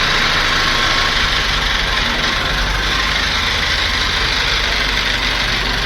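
Steady machine noise, a loud hiss over a low hum, cutting off suddenly about a second after this stretch.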